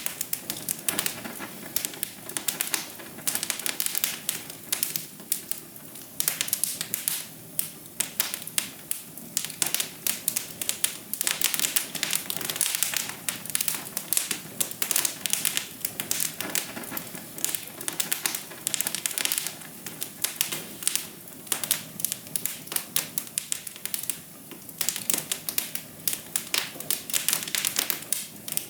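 Wood fire crackling in a fireplace: a steady stream of irregular snaps and pops, several a second, over a soft hiss.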